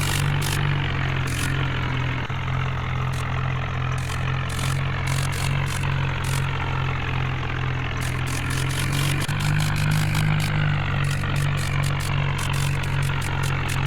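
Tractor engine running steadily at an even, low speed, with a slight step up in pitch about nine seconds in.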